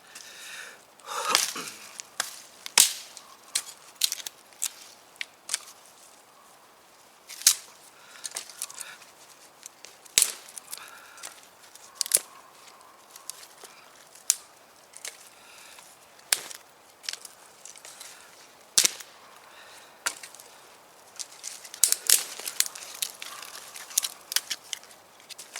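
Dead wood being chopped and broken up for a campfire: sharp, irregular cracks and knocks every second or two, with a few quick clusters of snaps.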